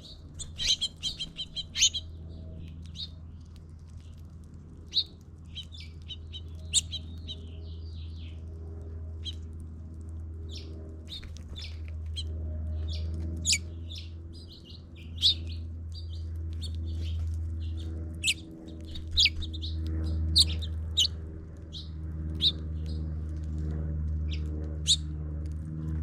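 Small songbirds chirping and tweeting, many short high calls coming thick and fast, over a steady low hum.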